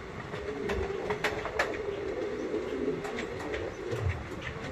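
ICF passenger coach running along the track at speed: a steady rumble and hum with a scatter of sharp clicks and knocks from the wheels and running gear, heard from beside the open side of the coach.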